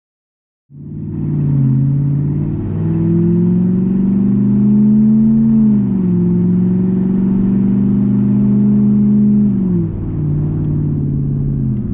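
Straight-piped 3.2-litre V8 of a 2001 Jaguar XJ8, exhaust open from the manifold, pulling hard under acceleration, heard from inside the cabin. It cuts in less than a second in, and its pitch climbs slowly then drops twice, about halfway and near the end, as the gearbox shifts up.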